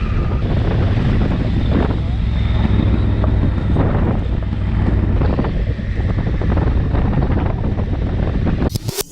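Motorcycle riding along, its engine a steady low drone under heavy wind buffeting on the microphone. Near the end the sound cuts abruptly to a quick run of sharp clicks or knocks.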